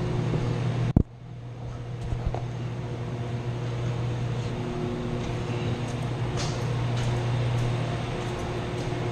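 Steady hum of motor-driven machinery running in a chiller plant room, with a sharp click about a second in, after which the sound dips briefly and comes back.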